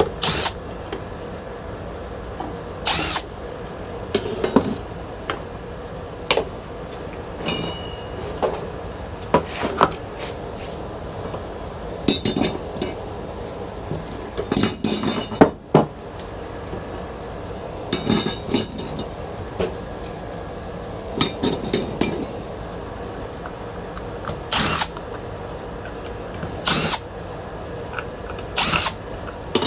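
Hand tools and metal ceiling-fan parts clinking and knocking at irregular intervals during disassembly for scrap, some strikes ringing briefly like sheet metal.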